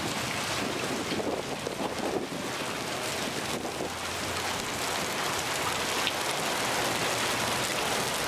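Rain mixed with small hail falling steadily, a dense even hiss of many tiny hits.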